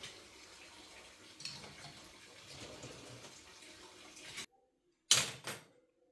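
Steady rush of running water that cuts off abruptly about four and a half seconds in, followed by two short, loud noisy bursts close together near the end.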